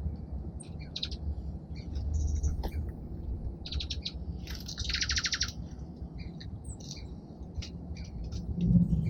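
Small songbirds chirping in short, scattered calls, with one rapid buzzy trill about five seconds in, over a steady low background rumble; a dull low thump near the end.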